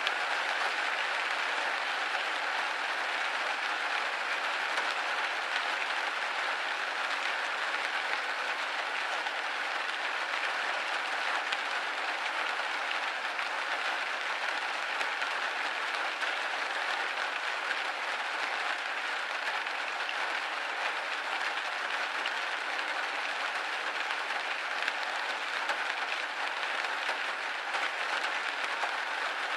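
Steady rain hitting a window pane: an even hiss of many drops, with no break or change.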